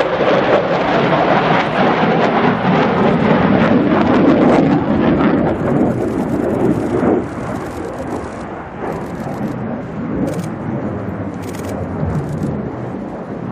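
Jet noise of a USAF F-16 Fighting Falcon flying past, loud for about the first seven seconds and then fading as it moves away.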